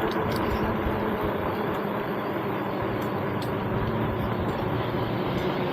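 Steady wind rushing over the microphone while riding, over a constant vehicle hum.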